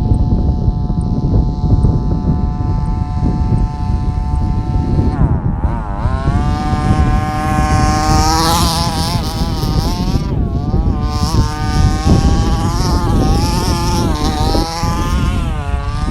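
Traxxas Slash short-course RC truck's motor whining: steady pitch at first, then from about five seconds in it rises and falls over and over with the throttle. A constant low rumble runs underneath.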